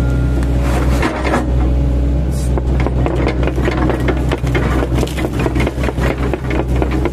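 Mini excavator's engine running steadily under load, with a quick, dense run of cracks and crunches from about three seconds in as the chipping blades on the bucket chop into oil palm trunks.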